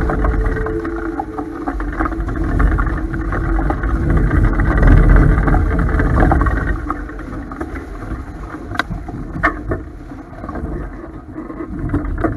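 Strong wind buffeting the microphone and water rushing past the hull of a Topaz 16CX sailboat under sail. It is loudest around the middle and eases off later, with two sharp knocks about nine seconds in.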